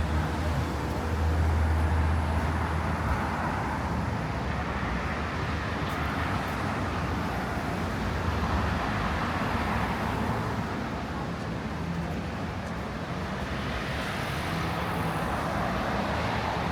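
Road traffic on a busy city boulevard: a steady wash of passing cars, with a deeper engine drone loudest about one to three seconds in.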